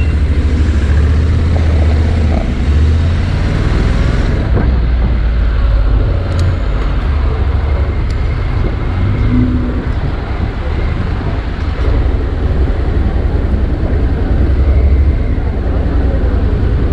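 Motorcycle engine running while riding through city traffic, with a heavy low rumble.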